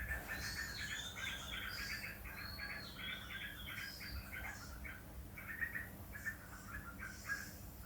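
Several birds chirping in a dense, rapid run of short chirps, with a few higher whistled notes that rise and fall in the first half. A steady low rumble runs underneath.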